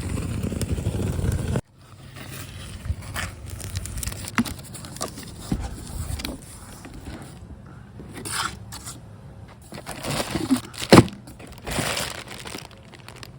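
Packaging being handled during an unboxing: scattered crinkling, scraping and rustling with light knocks, and one sharp knock near the end. It is preceded by a low rumble that cuts off abruptly about a second and a half in.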